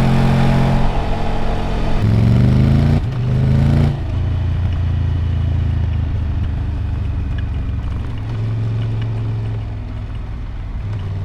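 Triumph Tiger 1200 Rally Explorer's three-cylinder engine running steadily, then revving up twice in quick succession from about two to four seconds in. It then drops back to a lower, quieter steady running note.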